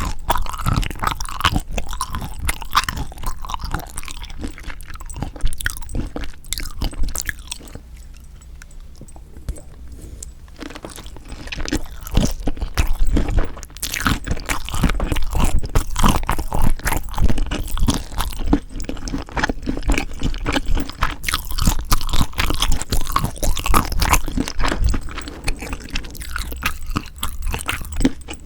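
Close-miked chewing and crunching of spicy seasoned raw shrimp, with irregular bites and crackles and a short lull of a couple of seconds about a third of the way in.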